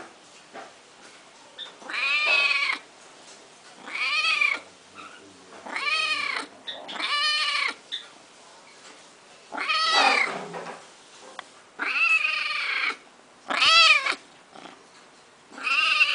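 A domestic cat meowing over and over, about eight drawn-out meows each rising and then falling in pitch, one every second or two.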